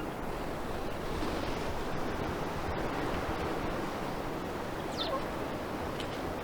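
Steady wash of ocean surf on a beach, with a short high falling bird chirp about five seconds in and a fainter one a second later.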